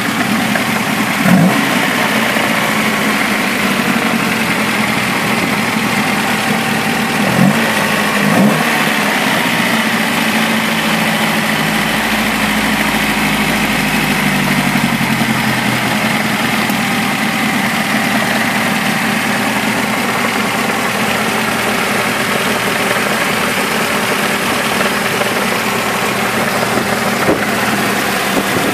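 Holbay-tuned Rootes four-cylinder engine in a Humber Sceptre Mk3 idling steadily. The throttle is blipped three times, briefly: once about a second in, then twice close together around seven to eight seconds in.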